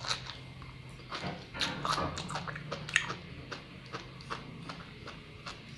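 Chewing a mouthful of sea grapes: an irregular run of wet pops and clicks as the beads are bitten, the sharpest about three seconds in.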